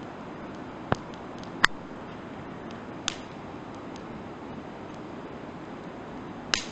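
Firewood burning in a campfire and crackling, with four sharp pops and a few fainter ticks over a steady hiss. The loudest pop comes about a second and a half in, and another comes near the end.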